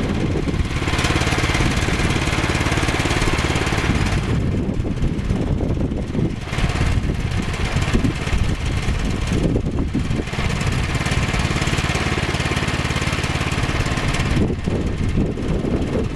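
Portable bandsaw sawmill running, its engine under steady load while the band blade saws through a green log. A rasping cutting noise over the engine swells and fades several times.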